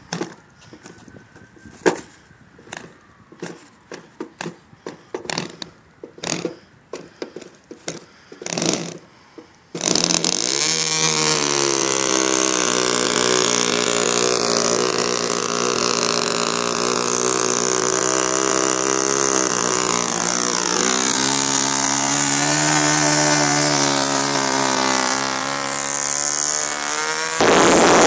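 Scattered clicks and knocks, then an O.S. .20 FP two-stroke glow engine on a control-line model plane catches abruptly and runs at high, steady speed with a buzzing note. Its pitch dips and climbs back about two-thirds through, and a louder rush of noise comes near the end.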